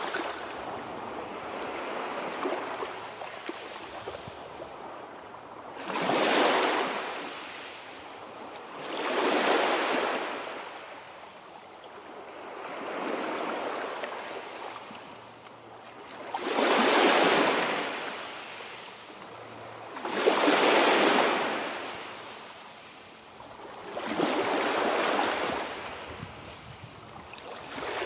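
Sea surf: waves surge in and fall away in a slow, even rhythm, one every three to four seconds.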